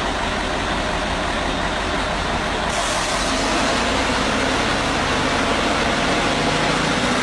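Heavy truck engine running steadily under load, the sound shifting about three seconds in.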